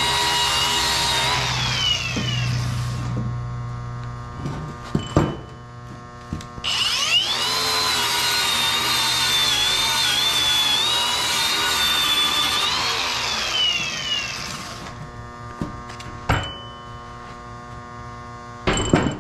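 Handheld electric grinder cleaning up welds on steel. It runs at a steady high whine, then winds down about a second and a half in. After a few knocks it starts again about six and a half seconds in, runs for about six seconds and winds down once more.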